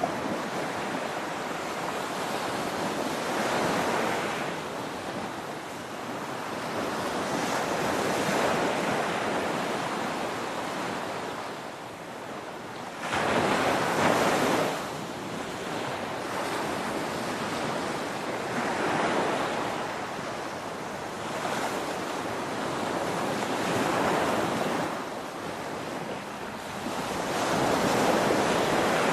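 Ocean waves breaking on a shore: a continuous wash of surf that swells and fades every few seconds, with one sudden, louder crash about halfway through.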